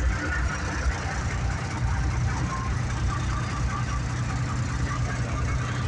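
Engine of a 2½-ton army truck (Deuce and a half) running steadily at low speed, heard from aboard the truck.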